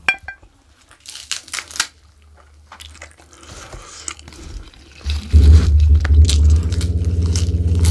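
Close-miked eating: crisp crunches and tearing of raw lalapan leaves, then chewing. About five seconds in a loud, low, jagged rumble sets in under the chewing.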